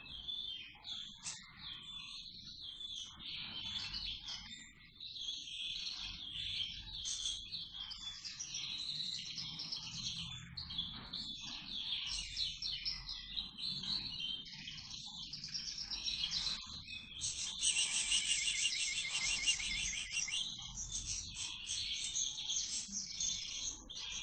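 Small cage birds chirping and twittering, with a louder, fast run of chatter from about 17 to 21 seconds in.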